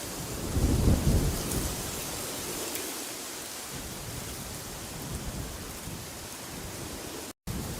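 Steady rushing wind with a deep rumbling gust about a second in. The sound cuts out completely for a split second near the end.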